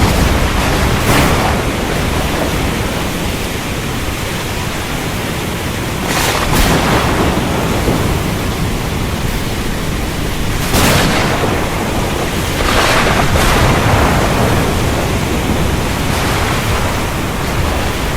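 Steady rain during a thunderstorm, the noise swelling every few seconds with rolls of thunder.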